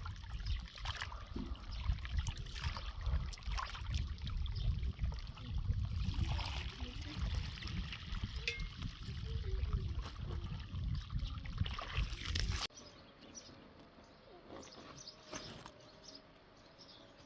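Water trickling, over a heavy low rumble. The sound cuts off suddenly about two-thirds of the way through, leaving quieter outdoor background.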